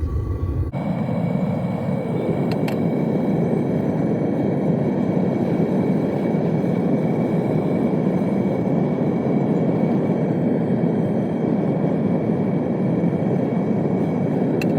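Steady, even roar of a gas burner heating a crucible of scrap zinc; it sets in abruptly just under a second in and then holds unchanged.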